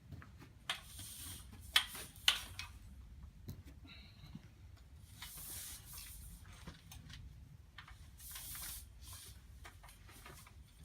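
Stretch-fabric graphic being pulled over a tube display frame: fabric swishing and rubbing as it slides, in several long pulls, with two sharp clicks about two seconds in.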